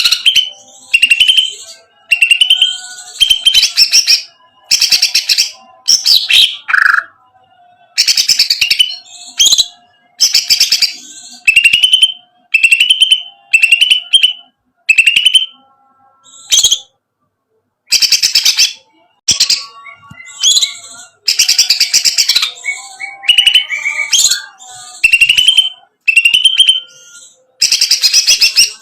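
Greater green leafbird (cucak ijo) singing loud, short phrases, each a rattling burst with sliding whistled notes, repeated about once a second with brief pauses in between.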